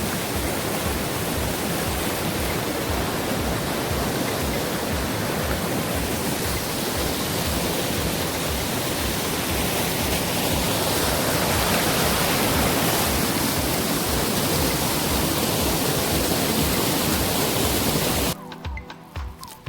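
Waterfall rushing steadily, a loud even roar of falling water, with background music's regular low beat underneath. Near the end the water sound cuts off suddenly, leaving only the music.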